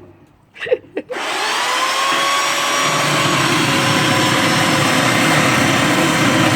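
Chainsaw starts about a second in and runs steadily at a constant pitch while cutting through a piece of wood.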